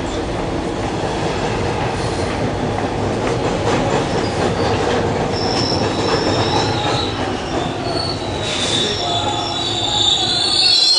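Hawker Siddeley H4 subway car running on the rails, heard from inside the car: a steady rumble of wheels and running gear. About halfway in, high-pitched steel wheel squeal starts against the rails and grows strongest near the end.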